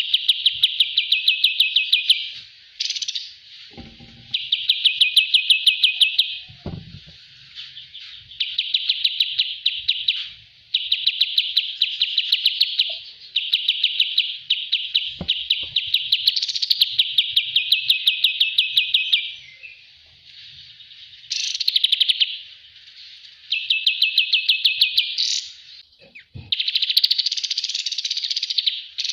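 Kapas tembak songbird singing rapid, rattling trills in bursts of about one and a half to three seconds, repeated over and over with short pauses between them, with a few faint knocks underneath.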